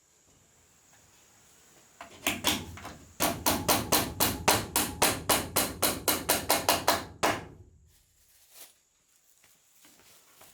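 A hammer driving into wood. A few blows come about two seconds in, then a fast, even run of about twenty blows, roughly five a second, lasting some four seconds before it stops.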